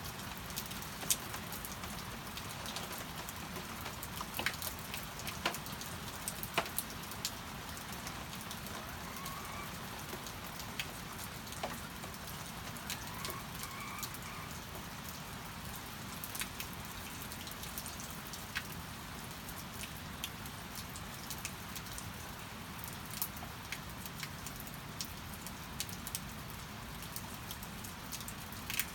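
Steady rain falling, with many separate drops hitting a surface as sharp ticks scattered irregularly through the rain.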